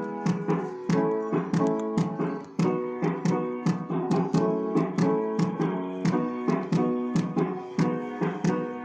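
Keyboard music: piano-like chords struck in a steady, even rhythm, with no singing.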